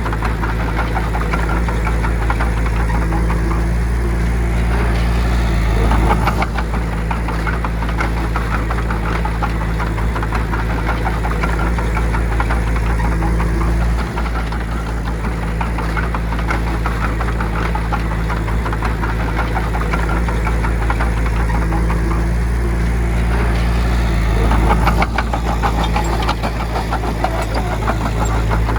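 Heavy diesel engine of a bulldozer running steadily while working, with a rough, clattering layer over a low drone; it swells louder briefly about six seconds in and again near the end.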